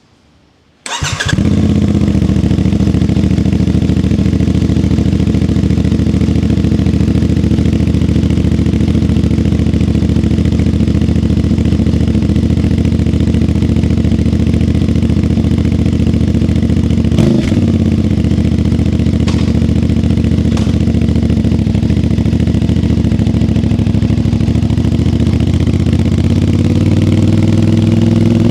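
CFMoto 450MT adventure motorcycle's parallel-twin engine starting about a second in, catching at once and then idling steadily. A brief click comes about halfway through, and the idle rises slightly near the end.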